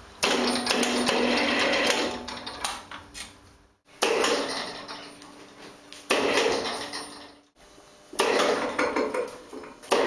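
Metal tools and parts clattering in four bursts, each starting suddenly and dying away over a second or two, during work on a truck gearbox.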